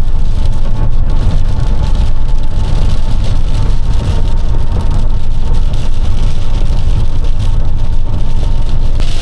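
Steady low rumble of a box truck's engine and tyres at road speed, heard inside the cab.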